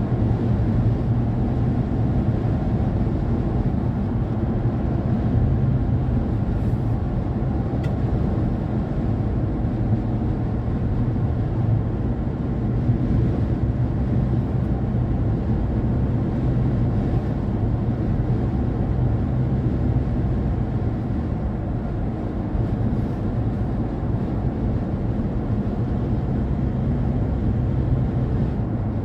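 Car driving at road speed: a steady low rumble of tyre, engine and wind noise.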